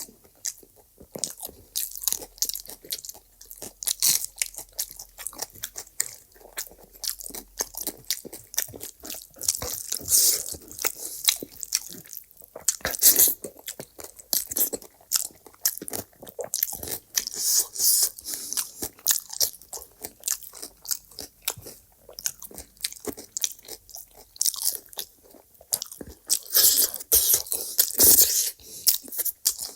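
Close-miked eating: a person biting, crunching and chewing food in a quick, irregular run of wet clicks and crunches, louder bursts about 13 s in and again near the end.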